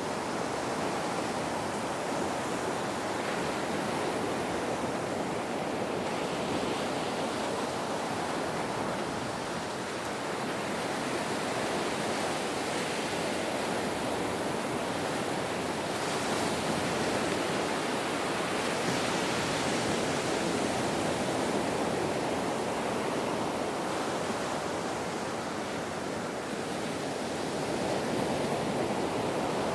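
Ocean waves washing on the shore in a steady, even rush of surf, swelling and easing gently every several seconds.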